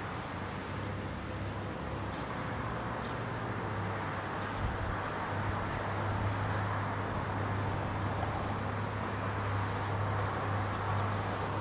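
Rice combine harvester running steadily: a low engine hum under a rushing mechanical noise, a little louder after about five seconds.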